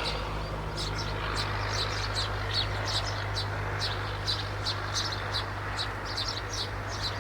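Maya birds chirping in quick, short, high notes, about three a second, over a steady low hum.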